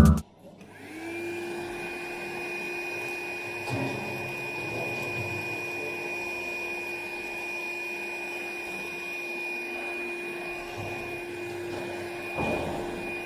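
Einhell TE-VC 18 Li cordless handheld vacuum cleaner switched on. Its motor spins up within the first second, then runs steadily with an even hum and a high whine. The hiss of the airflow grows a little louder near the end.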